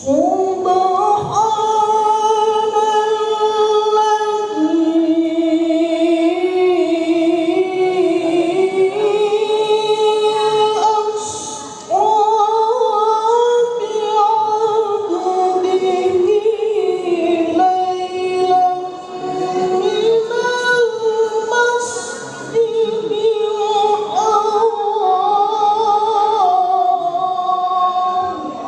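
A solo voice reciting the Quran in a melodic, sung style, holding long notes with ornamented turns and pausing briefly for breath a few times.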